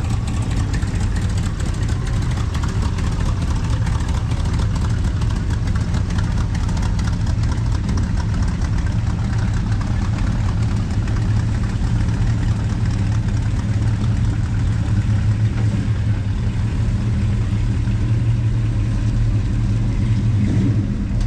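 Classic car engine idling and running at low speed, a steady low rumble.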